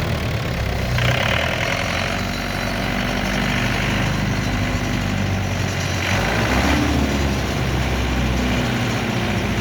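Yanmar generator engine running steadily, with brief stretches of a brighter, harsher sound about a second in and again around six seconds.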